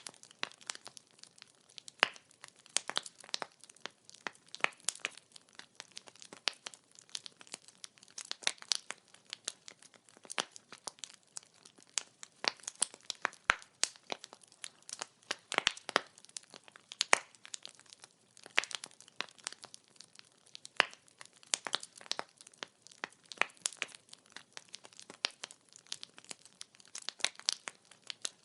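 Wood fire crackling: a steady stream of sharp, irregular pops and snaps from burning firewood over a faint hiss.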